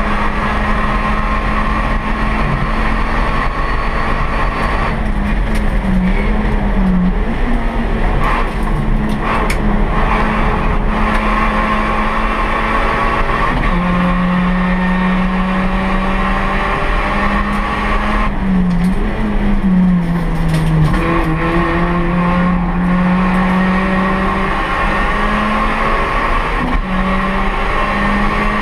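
Honda Brio race car's 1.2-litre L12B i-VTEC four-cylinder engine with an aftermarket racing exhaust, heard from inside the cabin. It runs at a fairly steady pitch, with brief dips in revs about six seconds in, around fourteen seconds and near twenty seconds. A steady rush of road noise sits under it.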